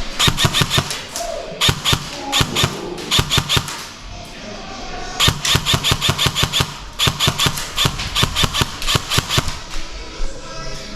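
Airsoft gun firing full-auto in several rapid bursts of sharp, evenly spaced shots, with short pauses between bursts.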